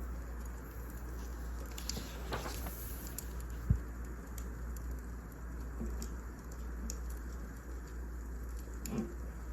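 Wood fire crackling, with scattered small pops and ticks over a steady low rumble; a single sharp thump stands out a little after three and a half seconds.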